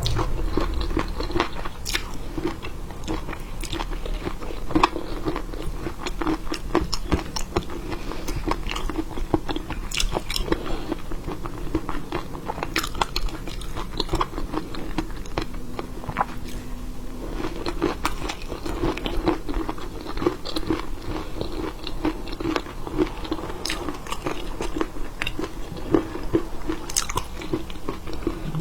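Close-up chewing and biting of seafood: a dense, irregular run of crunches and wet clicks.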